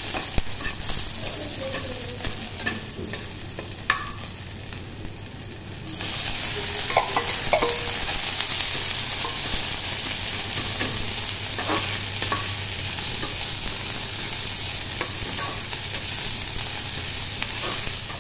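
Chillies and small dried fish frying in oil in a steel wok, a steady sizzle with a metal spatula stirring and clicking against the pan now and then. The sizzle gets louder about six seconds in.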